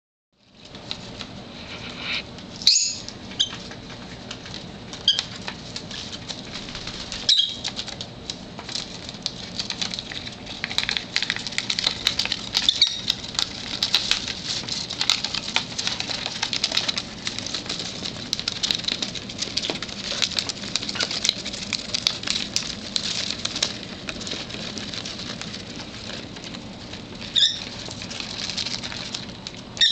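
Small parrots (pet lovebirds) chewing, nibbling and rustling through a pile of new toys: a dense, irregular crackle of small clicks and scrapes, with a few short chirps now and then.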